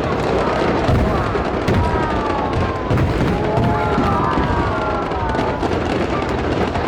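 Fireworks display: a continuous rapid run of bursts and low booms. From about two seconds in, several long tones glide slowly down in pitch over it.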